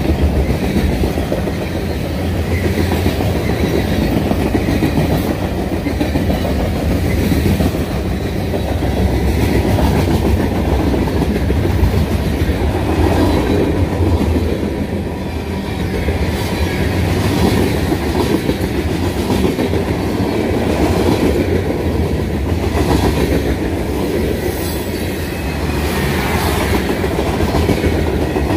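A train's cars rolling steadily past, their steel wheels clicking over the rail joints.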